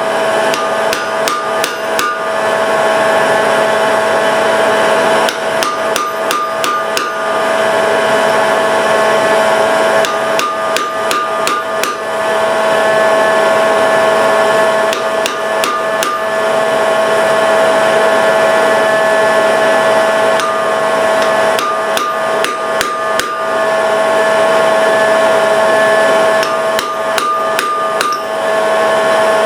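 Blacksmith's hammer striking hot iron on an anvil, in bursts of several quick blows about every five seconds, over the steady drone of a forge blower.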